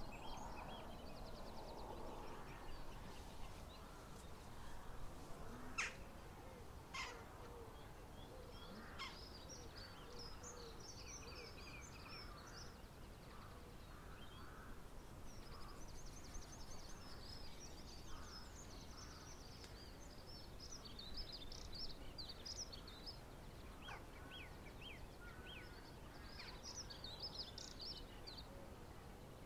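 Faint birdsong: small birds chirping and twittering in scattered bursts over a low background hiss, with two short sharp sounds about six and seven seconds in.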